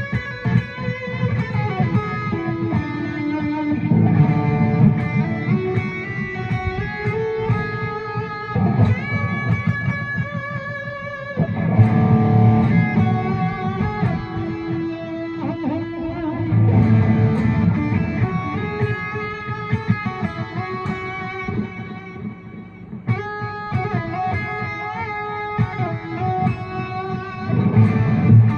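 Electric guitar playing a melody in D Lydian, single notes with some sliding pitches, over low chords that swell every few seconds.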